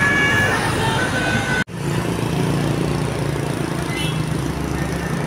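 Bus horn playing a short tune of several notes at different pitches, the kind of multi-tone horn Indonesian buses carry, cut off abruptly about a second and a half in. After that a bus engine runs steadily with traffic noise.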